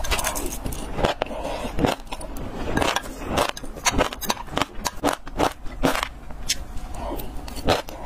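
Close-miked chewing of passion fruit seeds: a quick, irregular run of sharp crunching cracks, several a second. A metal spoon scrapes and clinks in a glass mug.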